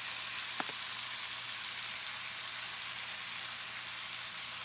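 Food sizzling steadily in a hot pan with garlic butter, with a single light tap about half a second in.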